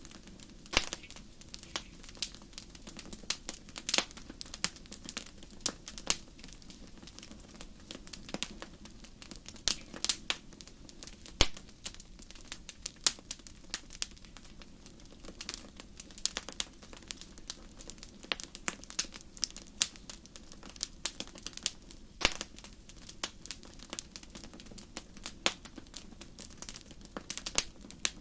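Wood fire crackling in a fireplace: irregular sharp pops and snaps, several a second and some much louder than others, over a steady low rushing of the flames.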